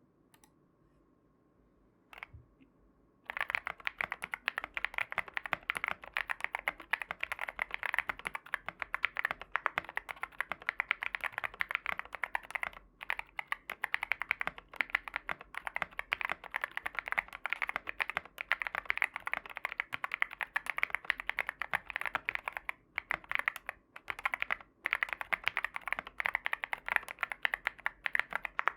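Fast typing on a Sugar65 mechanical keyboard with Tecsee Ice Mango tactile switches, a PC plate and gasket mounting, and Earl Grey Lavender keycaps: a dense run of key clicks with a few brief pauses. It starts about three seconds in, after a single click.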